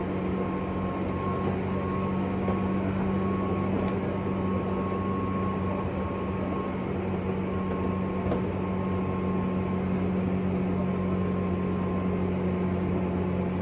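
JR West 201 series electric train running between stations, heard from inside a motor car (MoHa 201). Steady rumble of wheels on rail under an even hum.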